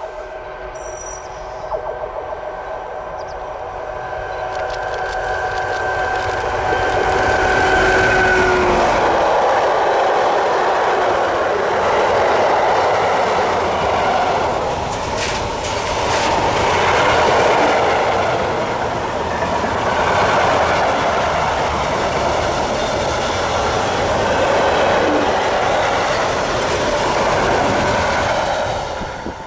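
A train approaching with a steady whine that grows louder, then passing close by for about twenty seconds with the rushing and clickety-clack of its wheels on the rails. The sound fades quickly near the end as the train clears.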